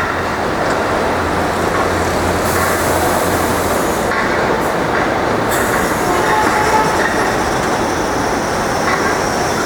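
R62A subway train running through the station with a steady rail rumble, a low hum that drops out about four seconds in, a brief hiss, and a faint wheel squeal midway.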